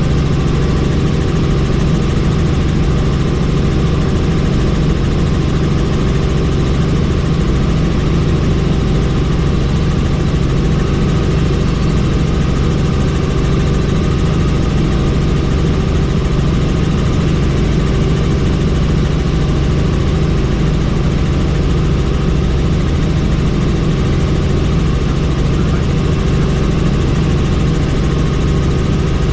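Helicopter in flight, heard from the cabin with the doors off: a loud, steady drone of engine and rotor that does not change.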